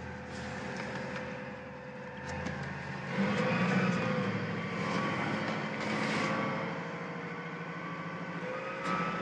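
A sailing yacht's inboard engine running steadily under way, a noisy, even hum. It grows somewhat louder from about three seconds in for a few seconds.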